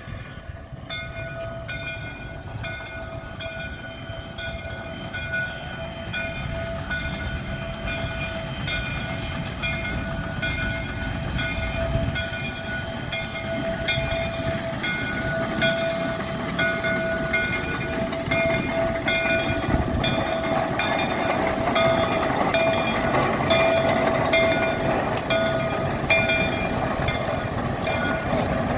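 Shay geared steam locomotive running and drawing closer, growing steadily louder. Over its low rumble there is a steady ringing tone that pulses in a quick, even rhythm.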